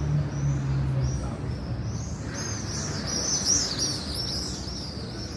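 A flock of small birds chirping together, the chirps thickening into a dense chorus about halfway through, over a low murmur of street traffic.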